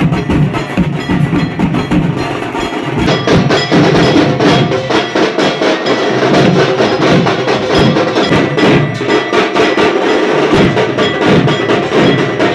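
Rhythmic percussion music with ringing, bell-like metallic tones over dense, fast strikes, thickening about three seconds in.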